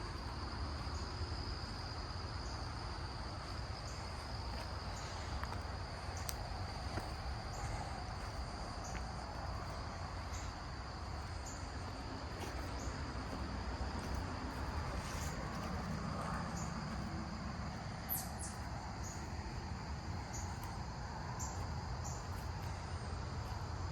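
Insects singing in woodland: a steady high-pitched trill, with short higher chirps repeating at even spacing, over a low steady rumble.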